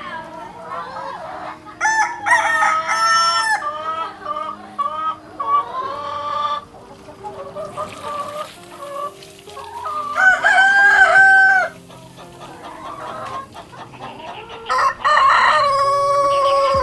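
A rooster crowing three times in long, drawn-out calls, with shorter clucking calls between the crows.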